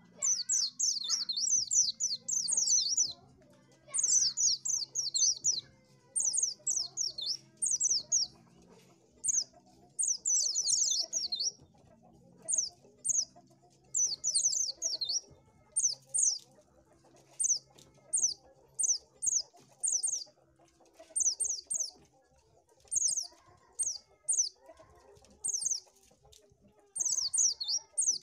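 White-eye (pleci) singing: fast runs of high, thin chirping notes, in dense bouts for the first dozen seconds, then shorter phrases of a few notes each about once a second.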